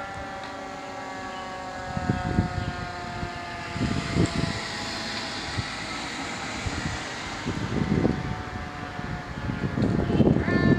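Fire apparatus siren sounding as the rig passes on a response, its pitch sinking slowly, over swells of low engine rumble. Near the end a second siren starts up, louder.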